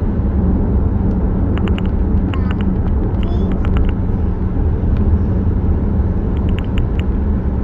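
Loud, steady low rumble with a few faint clicks over it, cutting in and out abruptly.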